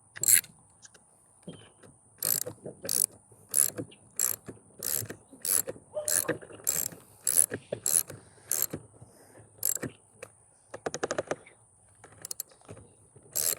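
A socket ratchet clicking in short, even strokes, about one and a half a second, as the skateboard's axle nut is run down onto the axle. It pauses near the end and clicks a few more times as the nut is snugged up.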